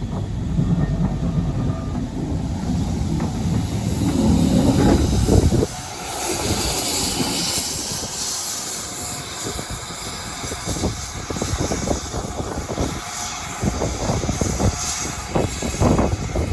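A train running past, with a heavy rumble that builds over the first few seconds and then drops off suddenly, followed by a hiss and a run of irregular knocks and clatter.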